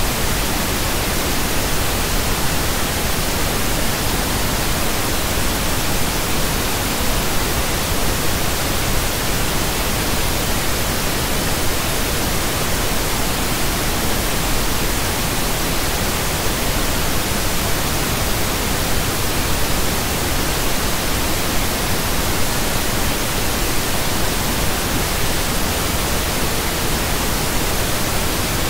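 Pink noise: a steady, even hiss spread across the whole range of pitch, with no change.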